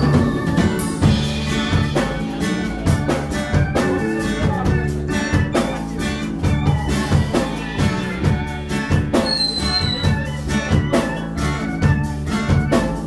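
Live rock band playing an instrumental passage with drum kit, bass and guitar keeping a steady beat, between sung lines of a song.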